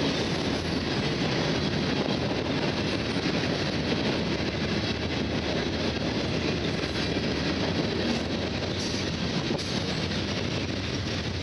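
Freight train of steel gondola cars rolling past: a steady, even rumble of wheels on the rails.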